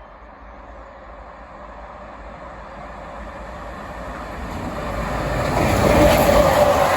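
A train approaching on the line, growing steadily louder until it is close about six seconds in.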